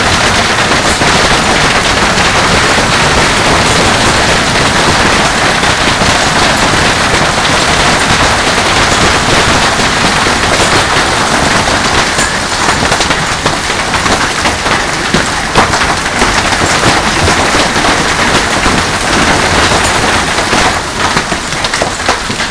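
Hailstones pelting down hard: a dense, continuous clatter of impacts over a rushing hiss, easing a little near the end.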